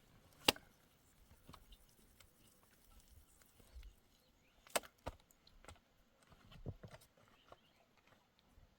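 A few separate sharp knocks over a faint background: the loudest about half a second in, two close together near the middle, and another a little later.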